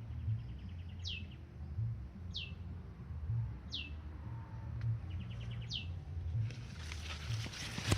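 A bird repeating one high, clear note that slides down in pitch, about five times, once every second or so, with a short buzzy trill twice, over a steady low rumble. From about six and a half seconds in, a crackling, rustling noise starts.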